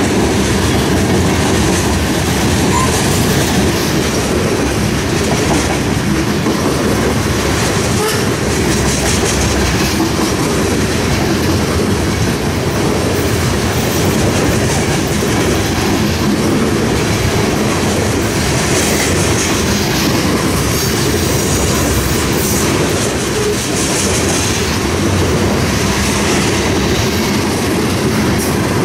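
Train cars rolling steadily past, a continuous rumble of steel wheels on rail with clickety-clack over the rail joints.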